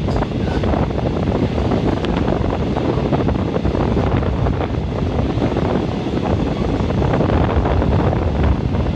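Train running on the rails, heard from inside the passenger carriage: a steady rumble mixed with the rush of wind on the microphone, with faint scattered knocks.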